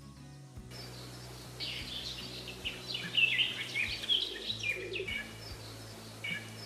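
Birds chirping and singing, many short quickly falling notes, over a steady outdoor background hiss, with low steady tones running underneath.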